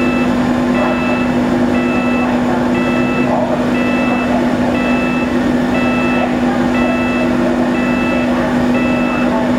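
A backup-alarm-style warning beeper sounding about once a second over the steady low hum of a departing ferry's engines.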